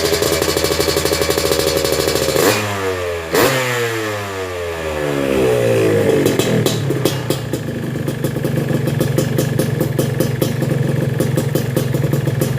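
Yamaha RX King's 135 cc single-cylinder two-stroke engine running through an aftermarket racing exhaust. The throttle is blipped twice, about two and a half and three and a half seconds in. The revs fall away and the engine settles back to an idle with rapid, uneven popping.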